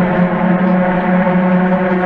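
Loud, steady ambient music drone: one sustained low tone with many overtones, unchanging and unbroken.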